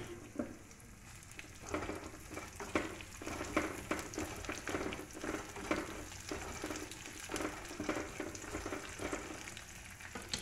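Tempering frying in hot oil in a pan, sizzling, while a wooden spatula stirs it in repeated strokes from about two seconds in.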